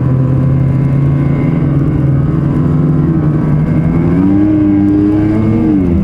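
Ski-Doo Renegade 850 snowmobile's two-stroke engine running at trail speed. Its pitch climbs about three and a half seconds in, holds, then drops sharply near the end as the throttle is let off.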